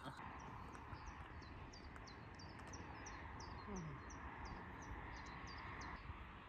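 A small bird singing a long run of short, high chirps, about three a second, over a faint, even outdoor hiss.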